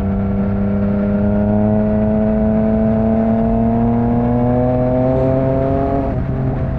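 Yamaha MT-09's three-cylinder engine through an Akrapovic exhaust, pulling under steady acceleration with its pitch slowly rising. About six seconds in it upshifts, the note briefly breaking and dropping to a lower, steady pitch.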